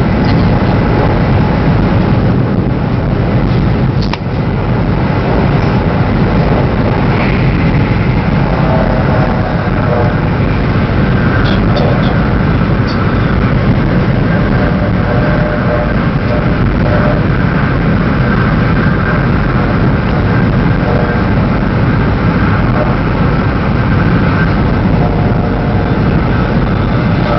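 Steady low rumble and running noise inside a high-speed train carriage travelling at full speed, about 300 km/h, without a break.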